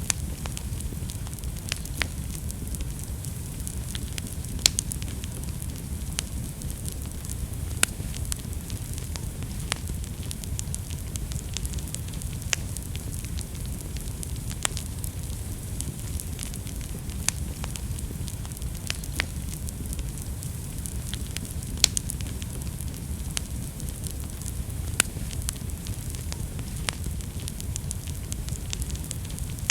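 Wood fire burning in a fireplace, with a steady low rumble of flame and frequent sharp crackles and pops, a few of them louder than the rest.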